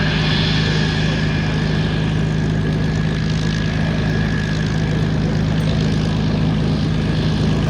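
Propeller aircraft engine running with a loud, steady drone that holds its pitch.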